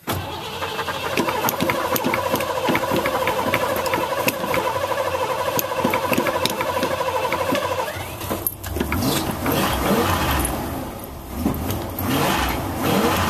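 Cold start of a 1987 Ford F350's 351 Windsor V8 with a Holley four-barrel carburettor: the starter cranks with a steady whine and fast, even ticking for about eight seconds, then the engine catches and runs, with a deeper sound and a little flutter.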